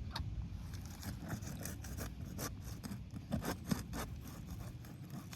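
Asphalt roof shingles being lifted and handled by hand: a run of short, irregular scrapes and crackles, several a second, over a low steady rumble.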